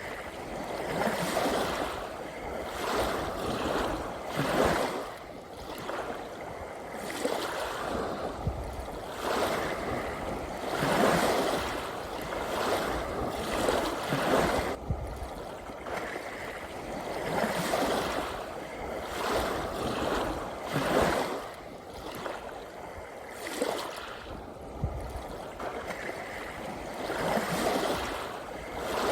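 Small sea waves washing in: a steady rush of water that swells and falls roughly every two seconds.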